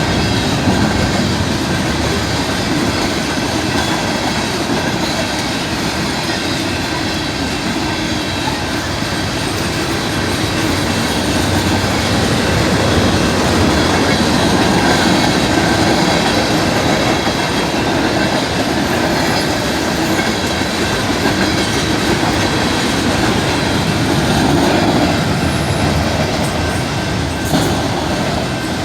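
Canadian Pacific train rolling past close by: a steady, loud rumble and clatter of its cars' wheels over the rails.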